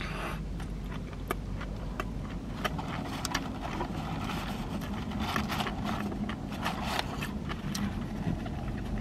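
Close-up chewing of a mouthful of cheeseburger: irregular wet smacking clicks, with a steady low rumble underneath in the car cabin.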